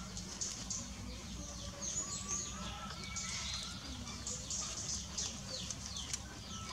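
Birds chirping: many quick, high, falling notes in irregular runs over a steady low rumble.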